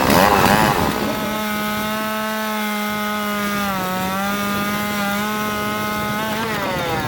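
Chainsaw running at high revs, cutting through a fallen tree. The engine note wavers at first, holds steady, sags a little about halfway through and climbs again shortly before the end.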